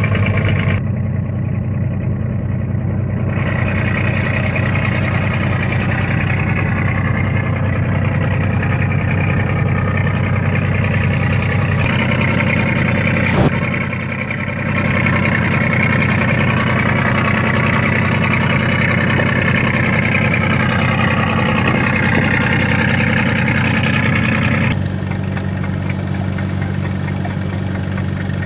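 Fishing boat's engine running steadily at a constant speed, with one sharp knock about halfway through.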